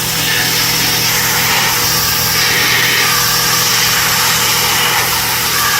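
A small motor-driven machine running steadily, with a loud hiss over its hum.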